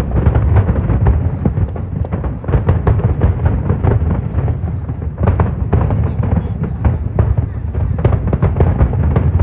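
Aerial fireworks bursting in quick, irregular succession: many overlapping sharp bangs over a continuous low rumble.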